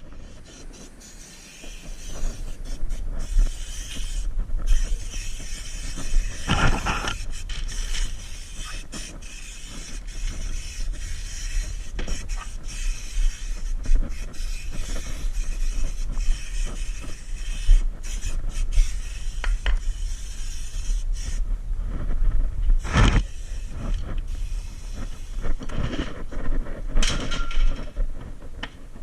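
Workshop noise from rust-proofing work on a car: irregular knocks and scraping over a steady low hum, with louder bursts about a quarter of the way in and again about three quarters through.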